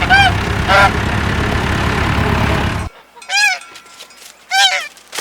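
Goose honking four times, each call a short arched honk. Under the first two honks a tractor engine runs steadily, then cuts off suddenly about three seconds in.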